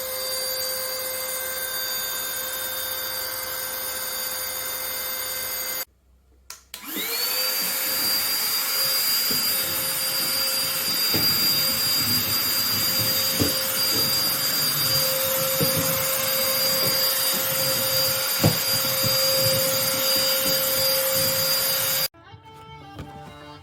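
Fochai cordless stick vacuum cleaner's motor running with a steady high whine. It is switched off about six seconds in, restarted a second later with its whine rising quickly to full speed, and runs with a few clicks and knocks before cutting off near the end.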